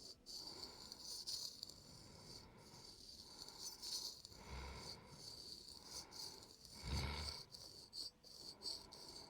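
Razor blade scraping over facial skin close to the microphone, in a run of short, fine, scratchy strokes, with a couple of soft low thuds.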